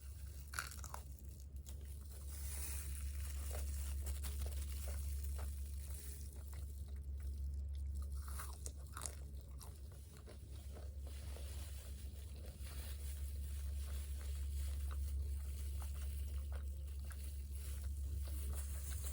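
Close-miked biting and chewing of crispy fried food, fried chicken and fries, with many short crunches and crackles over a steady low hum.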